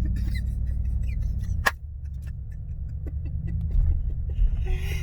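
Muffler-deleted V8 exhaust droning inside the car's cabin while driving, a steady low rumble. About a second and a half in there is a sharp click, and the rumble drops a little after it.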